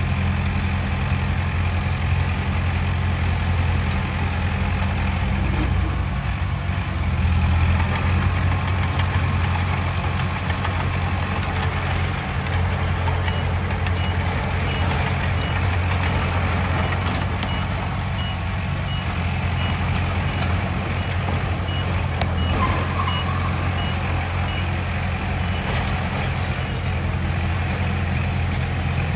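Heavy diesel earthmoving machinery running steadily with a low engine drone. A reversing alarm beeps about twice a second from about 13 seconds in to about 25 seconds in.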